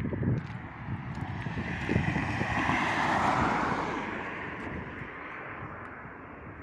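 A vehicle passing by: a rushing noise that swells to its loudest about three seconds in, then fades away slowly.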